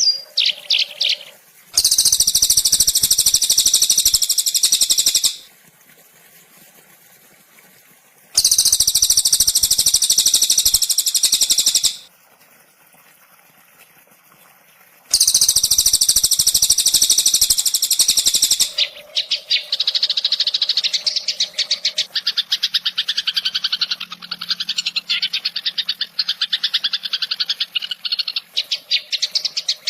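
Recorded songbird calls used for training caged birds. Three loud, very rapid high buzzing trills of about three and a half seconds each come with short pauses between them. After that a long run of fast repeated chattering notes follows.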